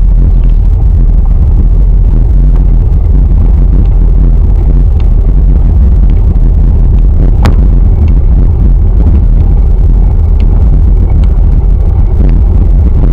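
Wind buffeting the microphone of a camera riding along on a moving bicycle: a loud, steady low rumble, with a single sharp click about seven and a half seconds in.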